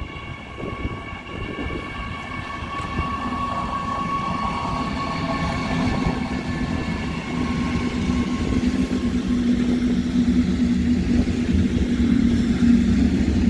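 A regional train of double-deck coaches, hauled by an electric locomotive, passing close by, with a steady high whine that fades out about halfway. A lower steady hum builds and grows louder, and is the loudest sound near the end.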